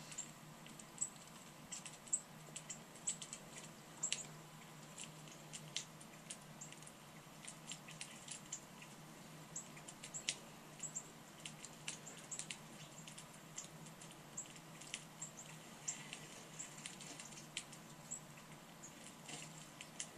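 Small birds chirping: many short, high chips scattered irregularly, over a faint steady low hum.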